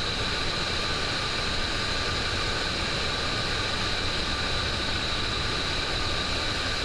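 Steady flight-deck noise of a Boeing 727 on approach: an even rushing hiss with a low hum and a steady high whine, unchanging throughout.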